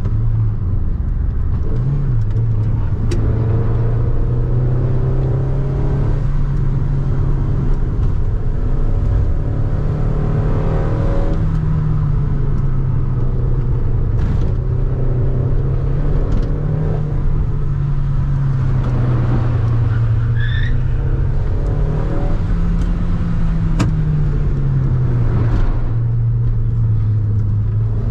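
VW Saveiro pickup's engine heard from inside the cabin, driven hard through a series of curves. Its pitch rises and falls several times as the driver accelerates and lifts off, over steady road and tyre noise.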